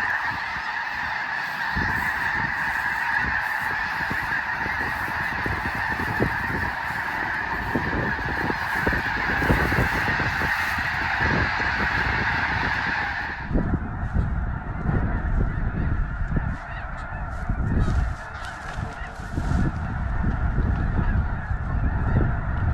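A vast flock of snow geese calling together, a dense, continuous din of honking. About two-thirds of the way through the calling drops abruptly to a fainter level, with a low irregular rumbling underneath.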